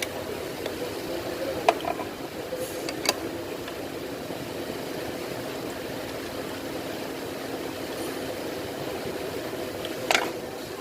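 Hyundai Azera 3.0's V6 engine idling steadily, with three sharp clicks or knocks over it, the loudest near the end.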